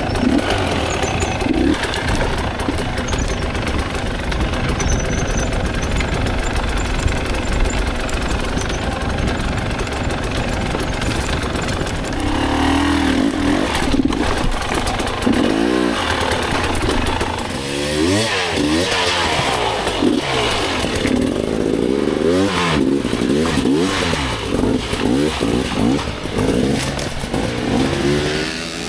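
Dirt bike engine being ridden hard off-road, with the revs climbing and dropping over and over, most clearly in the second half.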